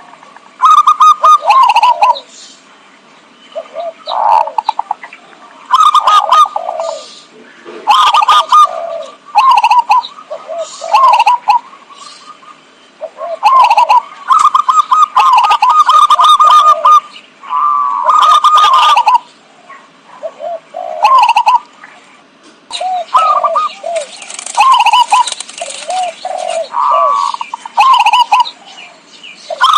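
Zebra dove (perkutut) cooing loudly: a string of short, trilling coo phrases, about one a second, separated by brief pauses.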